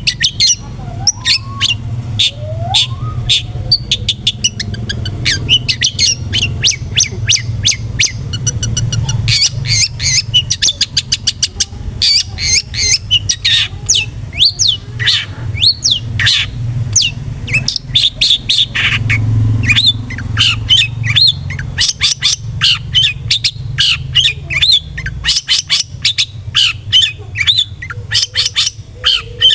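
Long-tailed shrike (cendet) singing in a fast, harsh chatter: dense runs of sharp, rapid high notes with short breaks, over a steady low rumble.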